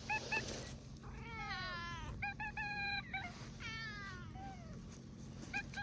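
Tabby cat meowing: a couple of short chirps, then three longer meows, the first and last falling in pitch and the middle one held level, and two more short chirps near the end.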